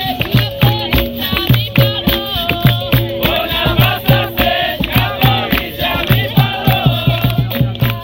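Capoeira roda music: a steady, fast percussion rhythm of berimbau, hand drums and rattles, with a group singing over it.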